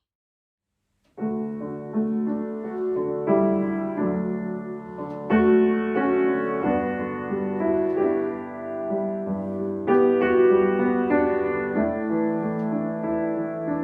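Piano music starting about a second in after a brief silence: gentle, sustained chords changing about once a second.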